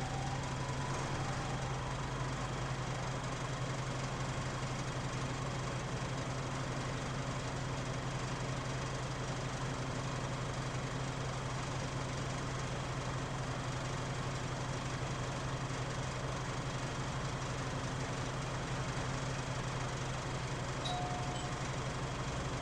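Mitsubishi Fuso KL-MP37JK city bus's diesel engine idling steadily, heard inside the cabin as an unchanging low drone with the heavy idle vibration this bus is noted for. A brief faint beep sounds near the end.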